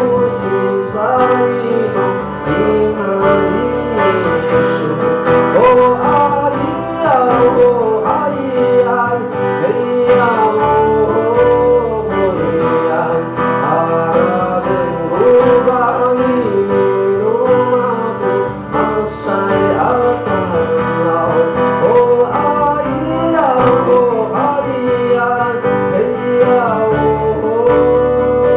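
A song performed by a male singer with guitar accompaniment, the voice carrying a flowing melody over steady strummed or plucked chords.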